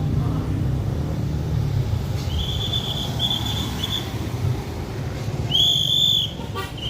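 Train passing with a low rumble, its wheels squealing in a high, wavering tone from about two seconds in and more loudly for a moment near the end.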